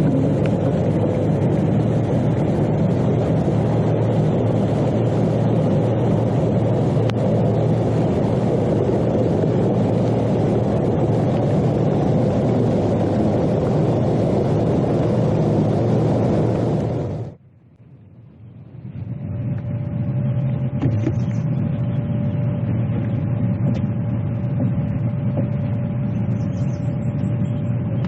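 A motor vehicle running steadily. About 17 s in the sound cuts off abruptly, then comes back duller with a faint steady hum.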